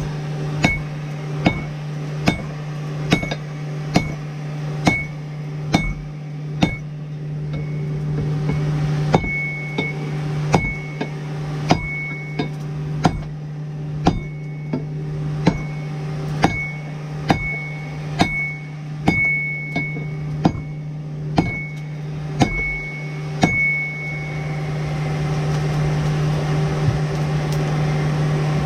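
Hammer blows on hot steel over an anvil, flattening the end of a wrench, about one blow a second with a short metallic ring after each. The hammering stops a few seconds before the end, and a steady low hum continues underneath.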